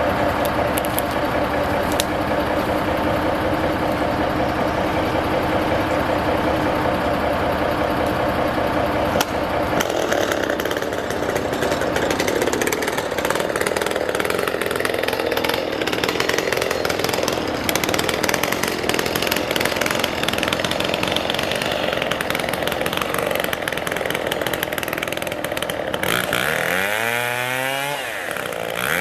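Chainsaw running at high revs, cutting through spruce timber, its engine note steady under load. Near the end the revs sweep down and back up.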